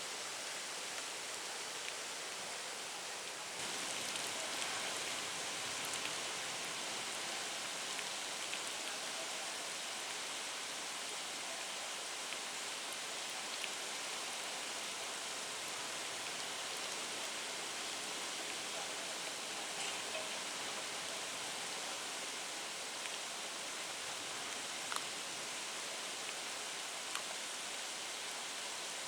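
Steady rain and wind noise in a typhoon, an even hiss with a few faint ticks of drops scattered through it. The noise steps up slightly about three and a half seconds in.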